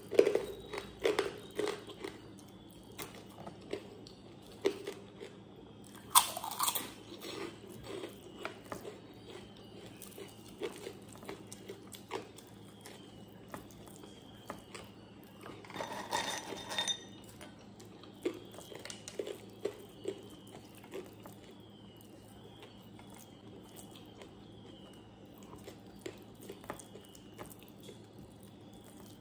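A person chewing and crunching crisp food, rice mixed with crumbled papad, close to the microphone. There are loud crunches about six and sixteen seconds in, and softer chewing after that.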